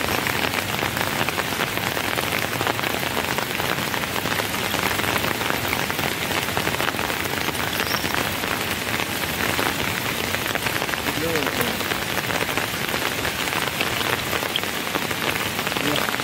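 Steady rain falling, an even hiss with scattered drop ticks that keeps up unchanged throughout.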